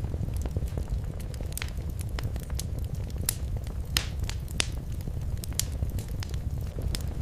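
Fireplace fire crackling, with frequent short sharp pops, a few louder ones about halfway through, over a low steady rumble.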